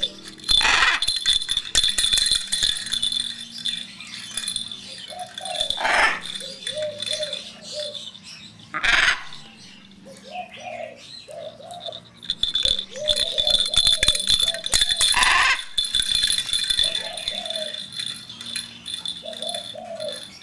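A pet parrot making short, repeated low calls, over the jingling rattle of a bell or rattle toy. A few sharp knocks come about half a second in, at about six, nine and fifteen seconds.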